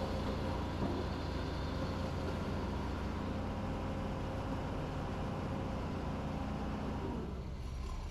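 Diesel engine of heavy construction machinery running steadily with a low hum and a light knock about a second in; the higher part of the sound drops away near the end.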